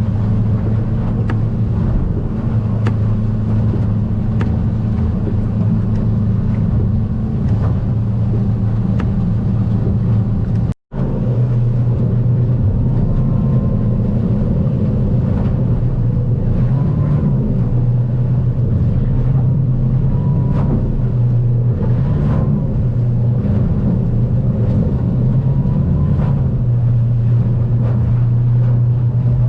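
The Stabicraft 2050 Supercab's outboard motor runs at a steady cruising speed, with faint knocks as the hull rides the chop. The sound cuts out for an instant about eleven seconds in, and the engine note then sits a little lower.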